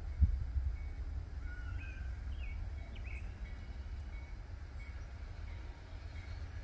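Low rumble of a freight train on the main line, with birds chirping over it; a brief thump sounds just after the start.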